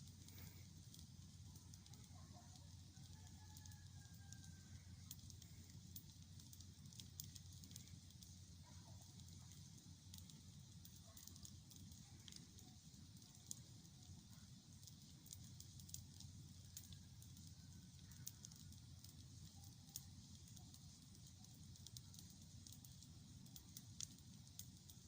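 Wood bonfire burning, faint, with scattered crackles and pops.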